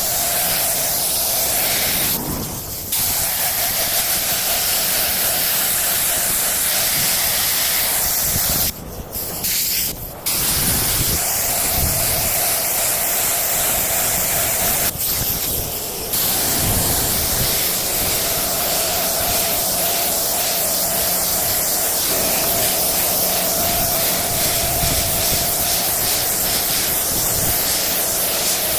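Compressed-air paint spray gun spraying, a steady loud hiss that stops briefly three times as the trigger is let off.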